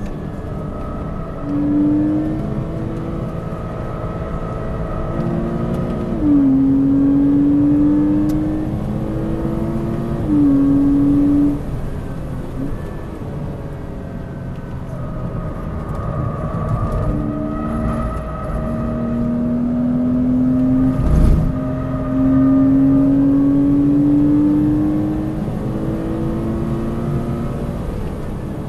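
Porsche Cayman 2.9's flat-six engine heard from inside the cabin at track pace, its pitch climbing under acceleration and dropping back several times, over tyre and road noise. A single sharp thump about two-thirds of the way through.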